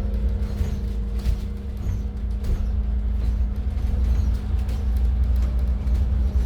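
Scania N280UD double-decker bus's compressed-natural-gas Scania DC09 engine and driveline running, heard inside the top deck as a steady low rumble with a constant hum. A few faint clicks and rattles come through on top of it.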